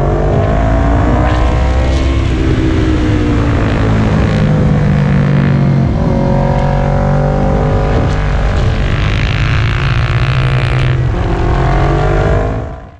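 Motorcycle engine heard onboard, its pitch rising and falling again and again as the rider accelerates and backs off through the corners, over a steady rushing noise. The sound fades out near the end.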